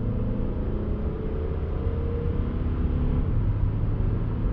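Mercedes-Benz C 220 d's four-cylinder turbodiesel accelerating hard, heard inside the cabin, its pitch slowly rising as speed climbs from about 80 to 110 km/h, with the automatic gearbox shifting up from third to fourth gear partway through.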